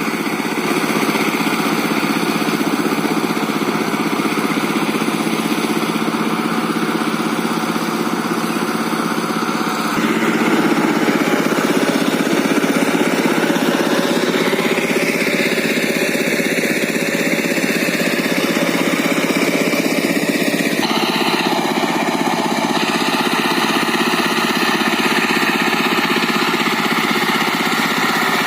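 Diesel walking tractor (power tiller) with a rotary tiller running steadily. The engine sound shifts abruptly in tone twice, about a third of the way in and again past two-thirds.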